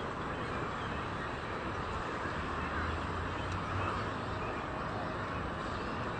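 Steady outdoor background noise, an even hiss with a low hum, without any clear bird call.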